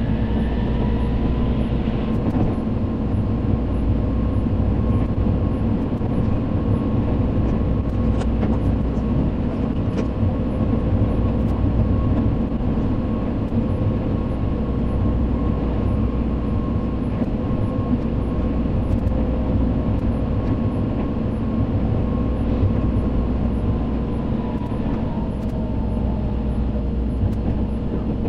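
Tobu 100 series Spacia limited express train running at speed, heard from inside the passenger car: a steady rumble with a constant whine that drops in pitch near the end.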